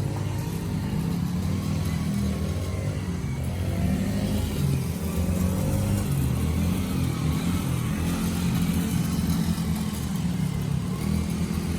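Kids' four-wheeler (ATV) engine running, its pitch rising and falling as it revs up and eases off.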